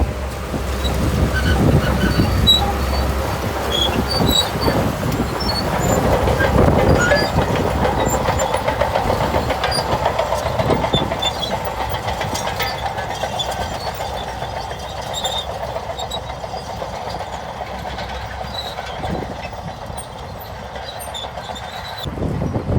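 Shantui crawler bulldozer working: its diesel engine running under load, with the steel tracks clanking and squeaking.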